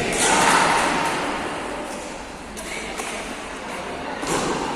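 Echoing crowd and game noise in an indoor sports hall, with a loud surge just after the start and a shorter, sharper one near the end.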